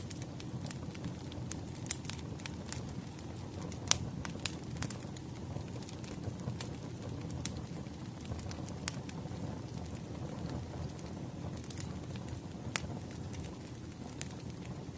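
Wood fire crackling: a steady low rumble of burning logs with scattered sharp pops and snaps, the loudest about four seconds in.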